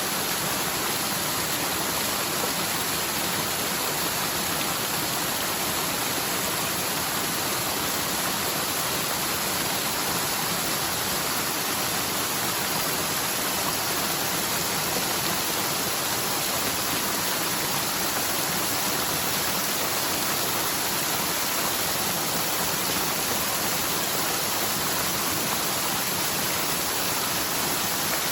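Steady rush of a swollen forest stream, a channel that is normally almost dry and now runs full with rainwater after a typhoon.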